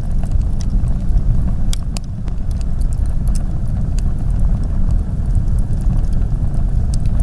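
Blizzard wind making a steady low rumble, mixed with a wood fire crackling in irregular sharp pops and snaps.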